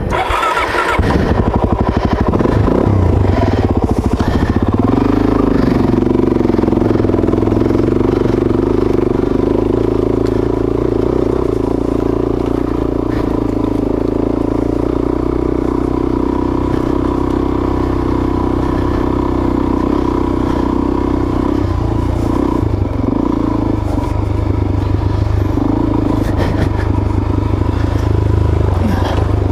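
Suzuki DRZ400S single-cylinder four-stroke engine running steadily, its revs wavering a little now and then.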